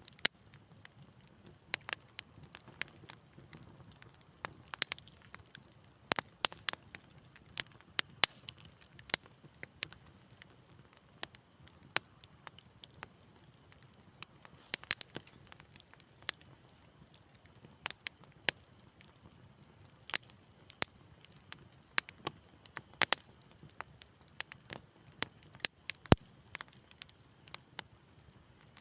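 Wood fire crackling: irregular sharp pops and snaps, a few at a time, over a faint low hiss of burning.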